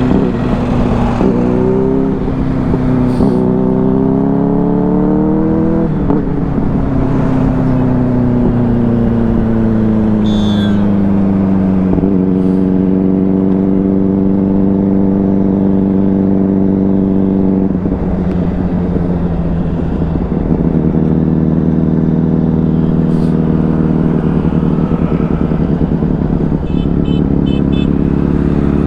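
Benelli 600i inline-four motorcycle engine under way: the revs climb over the first six seconds, then fall away and settle to a steady cruise.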